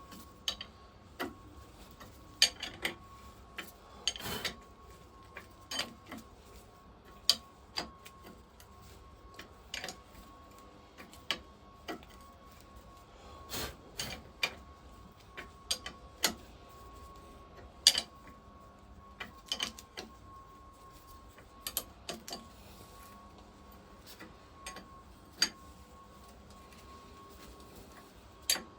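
Spanner working on nuts as they are tightened down, giving irregular sharp metal clicks and clinks about once or twice a second. A faint steady tone runs underneath.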